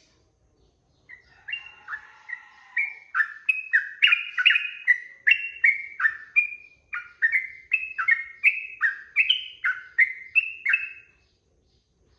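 Sooty-headed bulbul (trucukan) singing a long, fast run of short liquid whistled notes, about two to three a second, starting about a second in and stopping shortly before the end.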